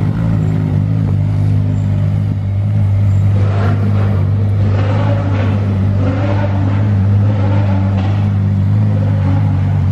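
Ferrari LaFerrari's V12 running at low revs, a deep steady drone as the car crawls along in slow traffic.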